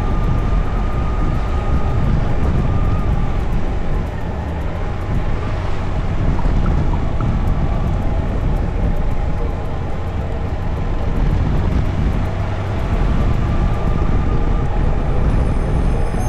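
Wind rushing and buffeting over the microphone on a moving Honda CB1100 motorcycle, with the bike's air-cooled inline-four engine running underneath.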